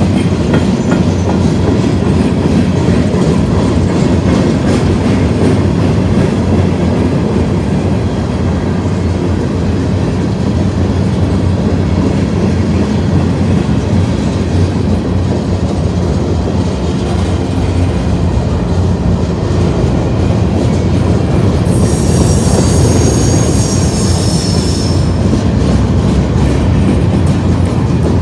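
Freight cars of a Union Pacific manifest train rolling past steadily on the rails. A high-pitched wheel squeal comes in about three-quarters of the way through and lasts a few seconds.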